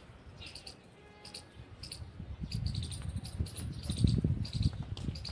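Small birds chirping repeatedly in short, high notes, with a low rumble that builds up over the second half and becomes the loudest sound.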